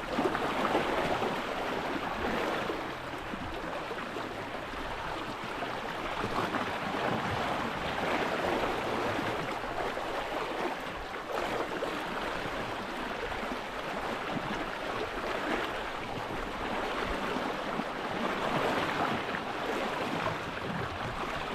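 Steady rushing of fast-moving sea water, a strong current running like a river.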